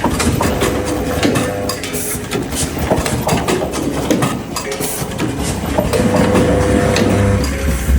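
Automatic pillow-type packaging machine running: a steady motor hum under a rapid, continuous clatter of clicks, with a faint steady whine.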